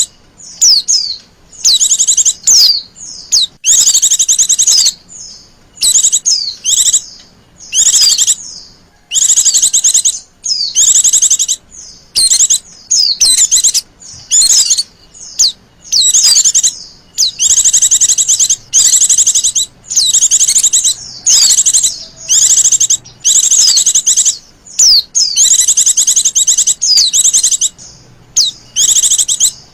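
Female white-eye (Zosterops) calling: loud, high, rapid trilled bursts, each lasting under a second, repeated about once a second.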